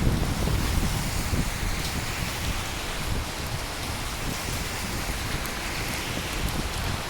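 Steady rain falling, with the tail of a low thunder rumble fading out in the first second or two.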